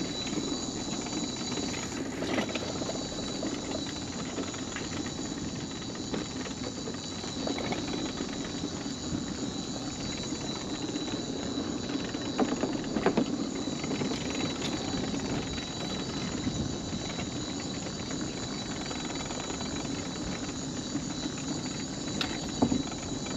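Mobility scooter rolling along a wooden boardwalk: a steady rumble from the wheels with a high, steady whine over it, and a few knocks from about 12 to 13 seconds in.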